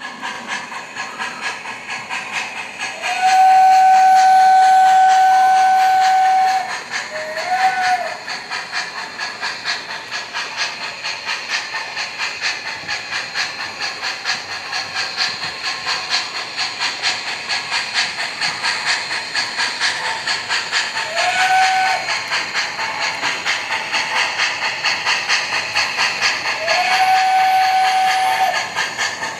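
Sound system of an MTH Premier PRR A5 0-4-0 O-gauge model steam locomotive playing steady rhythmic steam chuffing. Whistle blasts sound over it: a long one about three seconds in with a short one straight after, a short one a little past twenty seconds, and a long one near the end.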